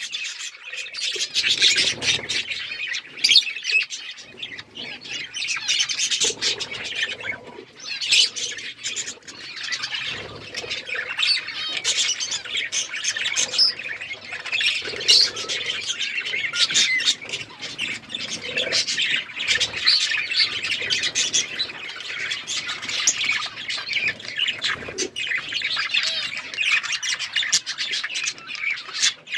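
A group of budgerigars chattering and chirping without pause, dense overlapping warbles and squawks with many short clicks mixed in.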